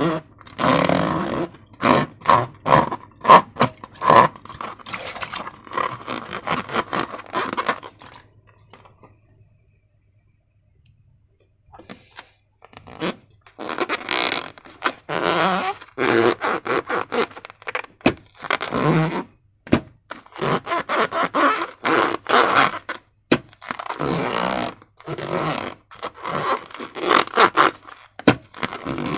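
Slime being worked by hand: irregular squelching and sticky scraping noises in quick bursts, with a pause of a few seconds about a third of the way in.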